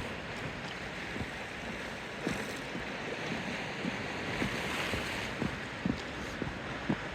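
Small waves lapping and sloshing at the bay's edge, with irregular soft knocks and wind rushing over the microphone.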